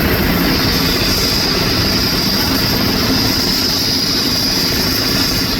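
Airbus A350-900 during pushback: a steady high jet whine over a constant low rumble, the whine growing a little stronger about half a second in.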